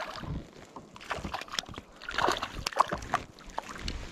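Water splashing and sloshing beside a kayak as a small hooked fish is brought in, mixed with irregular knocks and clicks of handling, busiest in the middle.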